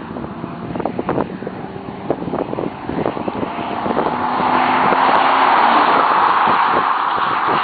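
1999 Chevrolet Silverado's naturally aspirated 5.3-litre V8 pulling hard as the pickup drives toward and past, its engine and road noise building to loudest over the second half, then beginning to fall away near the end. Gusts of wind buffet the microphone throughout.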